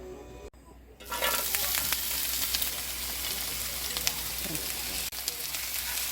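Food sizzling and frying in hot oil in a pan, starting suddenly about a second in and going on steadily.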